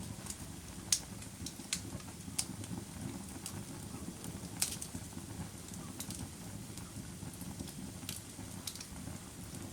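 Campfire burning: scattered sharp crackles and pops of the burning wood over a low steady rumble, the loudest pops about one second in and again about four and a half seconds in.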